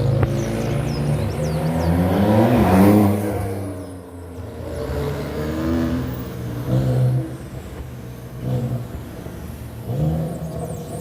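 A car engine revving as it accelerates past, rising to its loudest about three seconds in and then fading. Quieter engine swells from other passing traffic follow.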